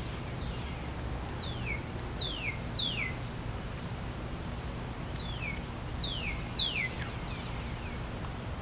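A bird calling outdoors: a series of high, sharply down-slurred notes, in two bouts of about four notes each with a pause of a couple of seconds between them.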